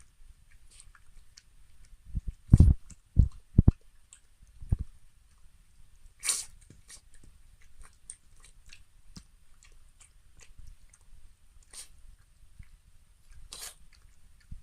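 Elderly Maltese dog eating, with scattered clicks of chewing and mouth noises. A few loud low thumps come in quick succession in the first third.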